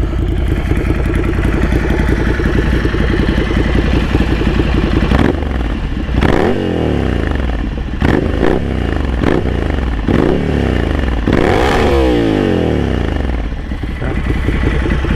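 Ducati Scrambler Café Racer's 803 cc air-cooled L-twin, breathing through a Vance & Hines slip-on exhaust. It idles steadily for about five seconds, then is revved in several quick throttle blips, each rising and falling in pitch. The longest and highest rev comes about twelve seconds in.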